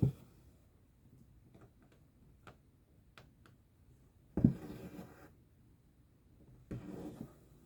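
Cross-stitch needle poking through the fabric with small sharp ticks, and thread pulled through in two longer drawn-out strokes, the first about halfway and the louder, the second near the end.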